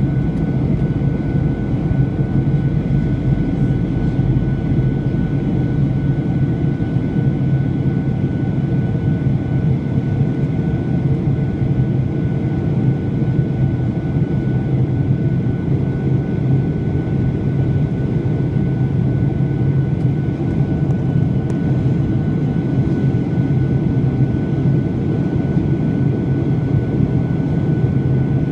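Steady drone of a Boeing 737-800 in flight, heard inside the passenger cabin: engine and airflow noise with a faint steady whine above it.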